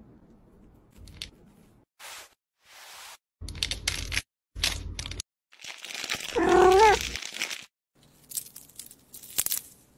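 Food-preparation handling sounds, crinkling and crunching, in several short separate stretches with silent gaps between them. About six and a half seconds in there is one brief pitched call with a wavering rise.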